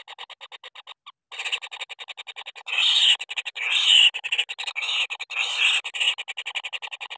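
Kingfisher chicks calling: a fast, even train of raspy pulses, about eight or nine a second, broken by a short pause about a second in, with louder harsh calls for about three seconds in the middle.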